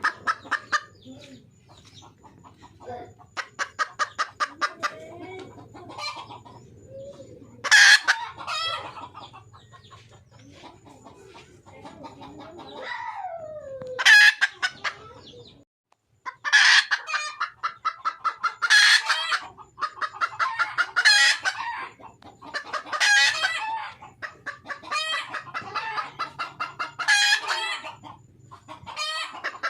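Red junglefowl hen calling: rapid runs of clucks, several a second, broken by loud sharp squawking calls that come about every two seconds in the second half, the call a hen gives to draw a cock.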